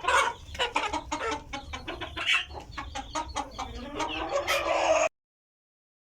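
Desi chickens clucking in a quick run of short calls, with a longer drawn-out call near the end; the sound cuts off suddenly about five seconds in.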